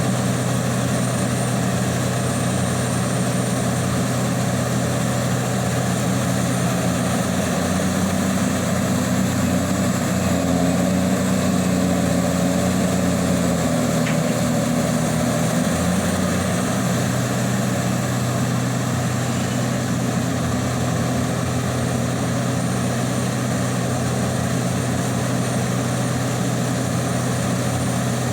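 Liebherr 984 hydraulic excavator's heavy diesel engine running steadily, swelling under load for several seconds midway before settling back.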